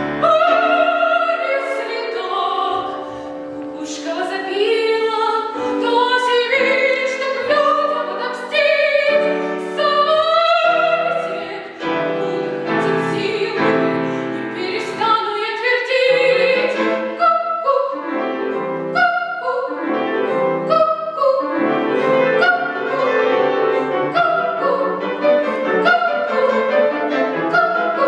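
A child singing a classical song in trained academic style, with vibrato on the held notes, accompanied by piano.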